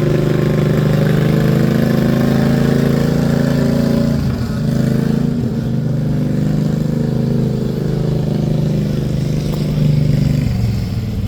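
Engine of a small homemade custom John Deere tractor running steadily, with a brief dip about four seconds in.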